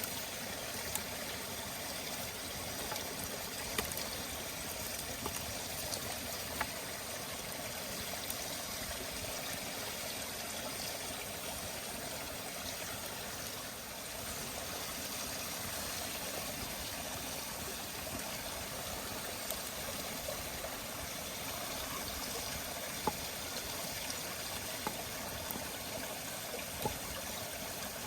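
Wood campfire burning: a steady hiss with scattered sharp crackles and pops every few seconds.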